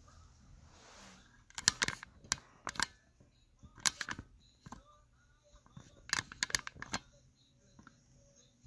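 Several quick clusters of sharp clicks and snaps, two to four at a time.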